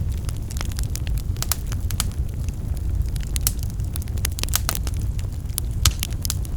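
Wood fire burning in a fireplace: a steady low rumble of flames under frequent irregular crackles and pops, with one louder pop near the end.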